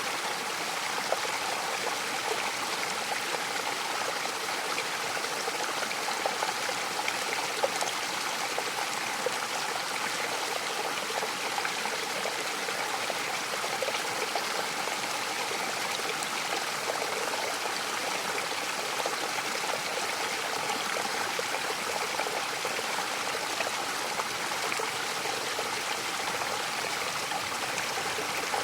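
Mountain waterfall: a steady rush of falling and splashing water, with small splashes scattered through it.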